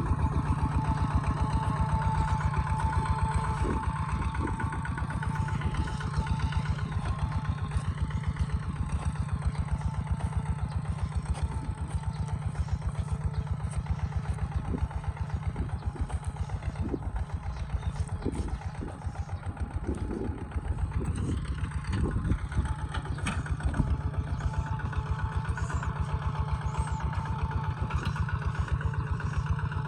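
Kubota ZT140 single-cylinder diesel engine running steadily, a rapid even chugging that eases slightly about two-thirds of the way through.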